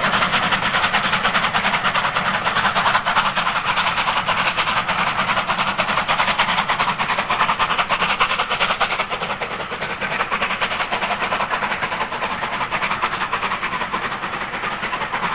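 Steam locomotive working a train along the line, with a rapid, even run of exhaust beats and wheel-on-rail noise that eases a little about two-thirds of the way through.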